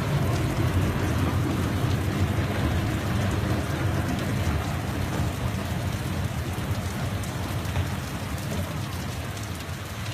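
Heavy rain falling steadily, with a low rumble underneath; the loudness eases a little near the end.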